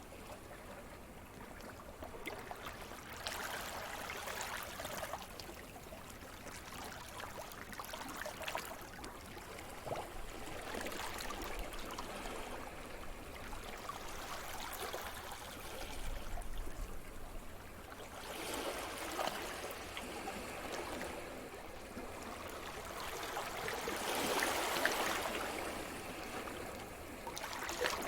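Sea surf: waves breaking and washing up the shore in slow surges every five to seven seconds, with a steady rushing wash between them. The loudest wave comes near the end.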